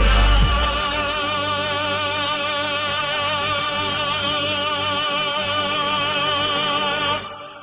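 AI-generated choir holding one long chord with a wide vibrato, the heavy bass dropping out about a second in. The chord cuts off near the end, leaving a short fading echo.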